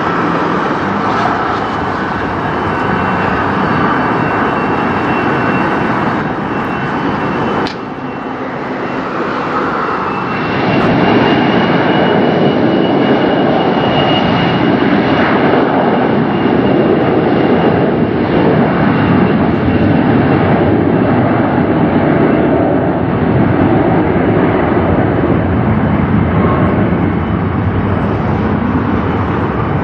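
Jet airliner engines running at takeoff power: a steady, loud roar with a high whine over it. A sudden break about eight seconds in, after which the roar grows louder.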